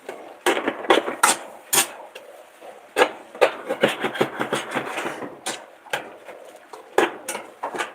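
Irregular clatter of kitchen utensils against cookware: about a dozen sharp knocks and scrapes, spaced unevenly, with a faint haze between them.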